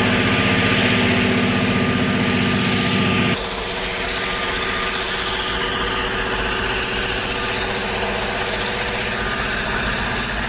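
Engine of snow-clearing rail machinery running steadily under a loud hiss. About a third of the way in, the sound cuts abruptly to a deeper rumble with a rougher hiss.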